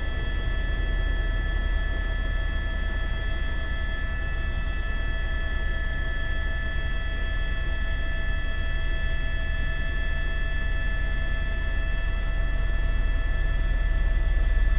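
Steady drone of a helicopter in flight as heard over the onboard microphone: a constant turbine whine of several high steady tones over a deep rotor rumble, unchanging throughout.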